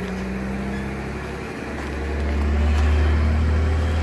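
Regional diesel railcar passing close by, its engine running with a deep drone that swells to its loudest about three seconds in.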